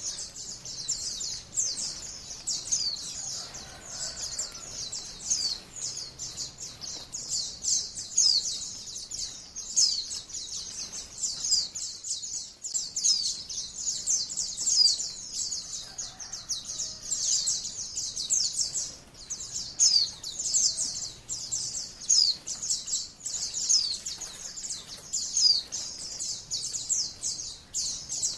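White-eye (pleci, Zosterops) song: a fast, unbroken stream of high, short downward-sweeping chirps, many each second.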